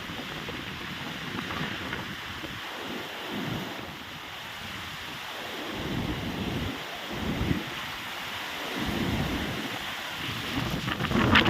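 Strong storm wind blowing in gusts and buffeting the microphone with low rumbling surges. Near the end it grows suddenly louder, with a dense crackling, rattling noise.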